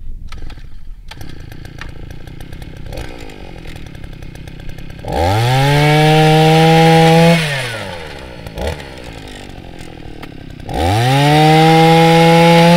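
Two-stroke 52 cc motorised ice auger engine idling, then twice revved up to full speed, each time held for about two seconds and dropping back to idle.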